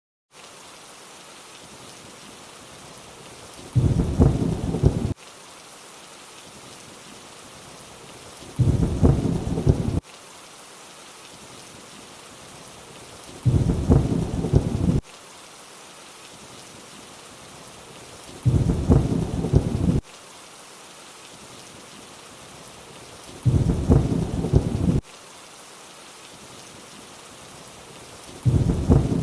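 Steady rain hiss with a low thunder rumble every five seconds, each about a second long and cutting off abruptly: a short rain-and-thunder recording played on a loop. The sound drops out briefly at the very start.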